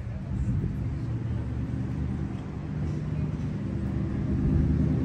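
A car engine running steadily with a low drone, growing somewhat louder near the end.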